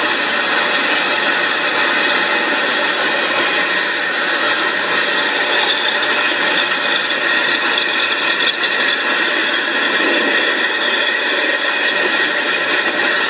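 Norfolk Southern trash train's container-laden freight cars rolling past on the rails: a loud, steady wash of wheel and rail noise with faint steady high-pitched tones over it.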